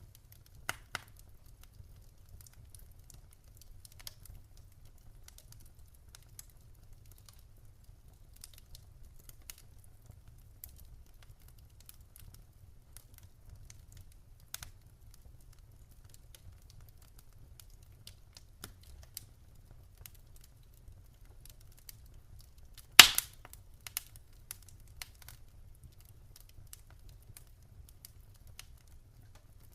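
Wood fire crackling in a fireplace: scattered sharp pops and ticks over a low steady rumble, with one loud pop near the end followed by a few smaller ones.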